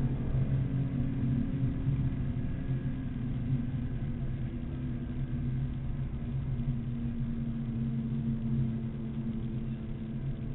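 BMW Z4 M Coupe's straight-six engine running at speed, heard from inside the cabin, its note holding fairly steady with slight rises and falls over steady road and wind noise.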